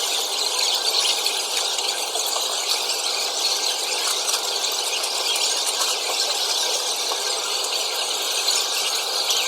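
Close-miked mukbang eating sounds: steady chewing and mouth noises with many small crackles, from a meal of udon noodles and tempura.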